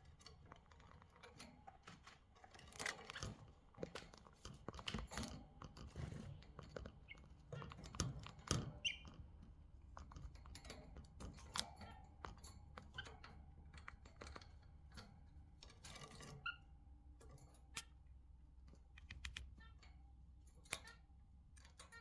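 Budgerigars pecking and chewing in their cage: faint, irregular clicks, taps and crunchy scratching from beaks, with a couple of short chirps.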